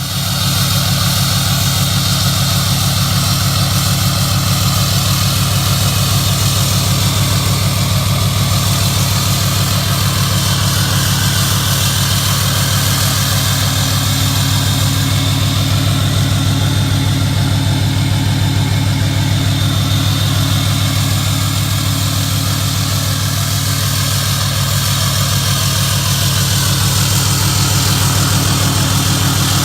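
Cummins turbo-diesel engine in a Ram pickup idling steadily through a freshly installed 5-inch stainless steel turbo-back exhaust.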